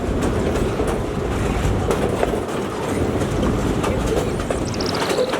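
Narrow-gauge forest railway train running along the track: a steady rumble with wheels clicking over the rail joints.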